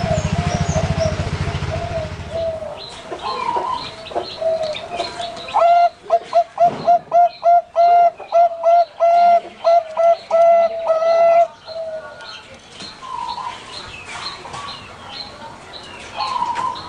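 Zebra doves (perkutut) cooing, with one close bird singing a loud, quick run of about a dozen rising cooing notes in the middle. A low buzzing hum is heard during the first two seconds.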